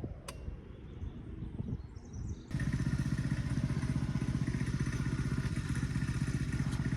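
A low rumble with one sharp click, then, from about two and a half seconds in, a dirt bike engine idling steadily with a fast, even putter.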